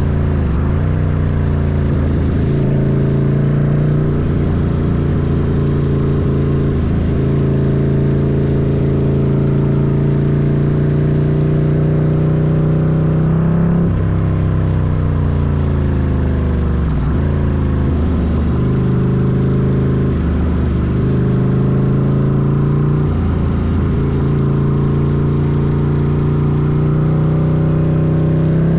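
Ducati Scrambler's L-twin engine running under way at a steady pace, its pitch dropping and picking back up several times as the throttle is rolled off and on or a gear is changed.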